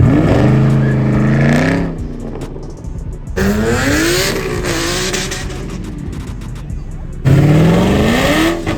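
V8 muscle cars accelerating hard one after another, the engine pitch climbing steeply three times: at the start, at about three and a half seconds, and at about seven seconds.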